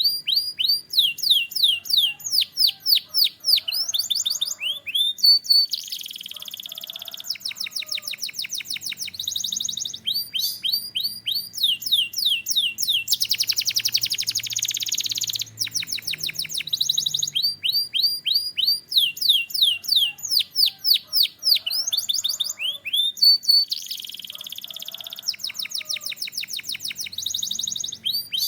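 A canary singing continuously: fast runs of repeated whistled notes that each sweep downward, broken up three times by longer, dense buzzing rolls.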